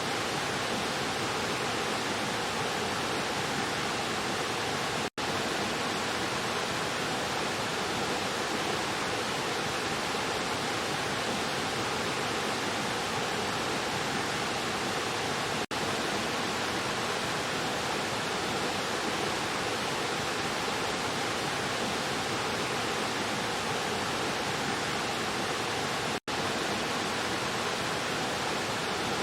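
Rushing stream splashing over rocks, a steady unbroken rush of water. It cuts out for a split second three times.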